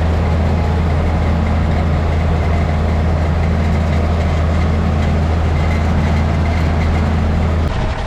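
A tractor engine running steadily with a deep, even hum, cutting off suddenly near the end.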